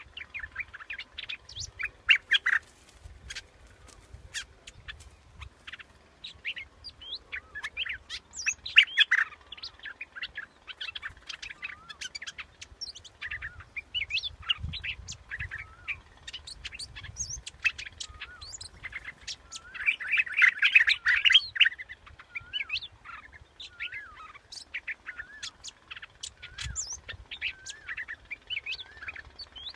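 Bulbul (the Thai 'prod dok taeng') calling: a long run of quick, bubbly chirping notes, with a denser, louder burst of calls about twenty seconds in. It is a decoy recording used to call in the bird.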